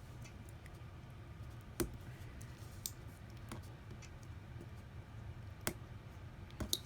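Small sharp clicks and taps of repair tools and iPhone SE parts being handled on a workbench, about five scattered across several seconds, over a low steady hum.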